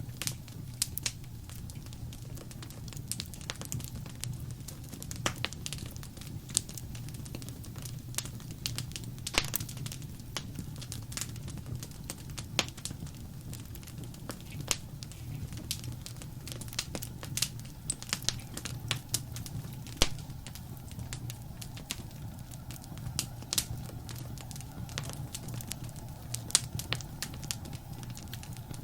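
Wood fire burning in a fireplace: a steady low rumble of flame with irregular sharp crackles and pops, a few louder snaps among them.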